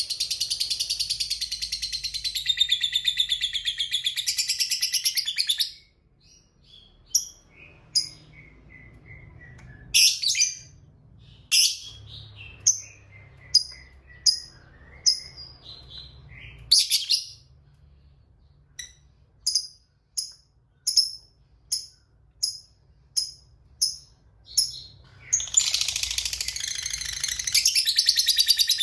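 Lovebird giving its long, rapid chattering trill (the 'ngekek'), which breaks off about six seconds in into a run of short, sharp single chirps, quickening toward two a second, before the long chattering trill starts up again near the end.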